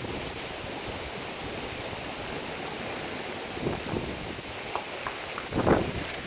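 Heavy rain pouring down steadily in a thunderstorm, with a few louder knocks and dull thuds in the second half.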